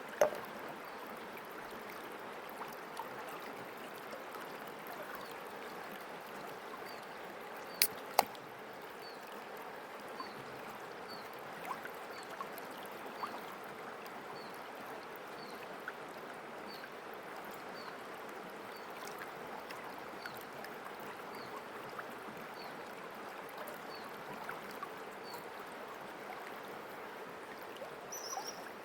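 River water running steadily, with a faint high chirp repeated about every two-thirds of a second through the middle and two sharp clicks close together about eight seconds in.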